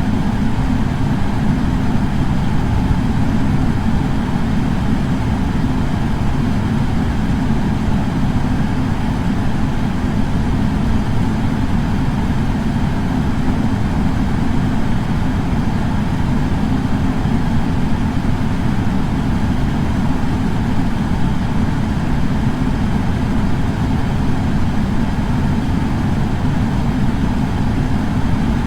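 Air purifier fan running steadily: a constant deep rushing hum with a lighter hiss of moving air above it.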